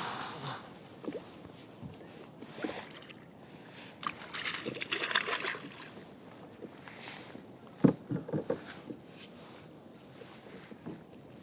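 Water sloshing and splashing against a kayak hull, with a sharp knock against the boat about eight seconds in and a few lighter knocks after it.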